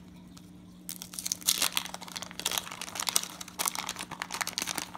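Baseball card pack wrapper crinkling and tearing as it is ripped open, a fast, irregular crackle that starts about a second in.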